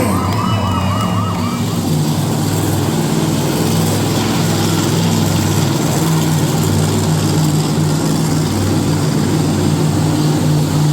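Monster truck engine running loudly and steadily, with a low, even drone. A warbling, siren-like tone rises and falls rapidly over it for the first couple of seconds, then stops.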